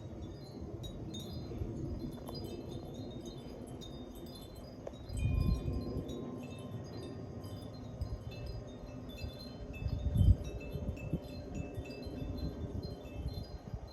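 Wind chimes ringing irregularly in a breeze, many short high notes, over a low rumble that surges louder twice, about five and ten seconds in.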